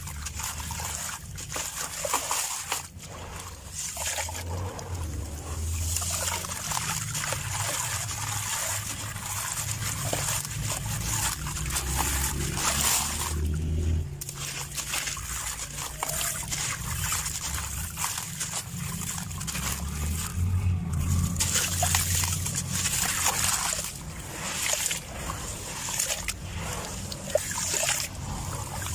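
Chunks of sand-cement crumbling, a continuous dense crackle and patter of falling grains, with a short break about halfway through.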